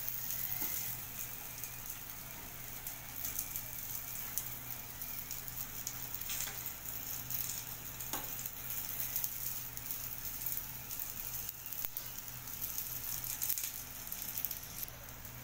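Stuffed snake gourd pieces frying in shallow oil in a pan, with a steady sizzle and a few clicks and scrapes of a steel spoon turning them against the pan.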